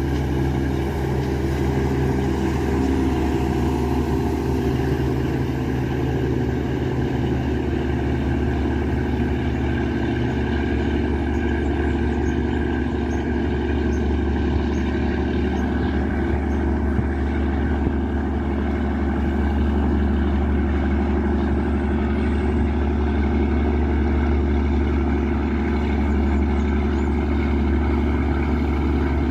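Riverboat's Yanmar 829 hp marine diesel engine running steadily under way, a constant low engine note with steady overtones.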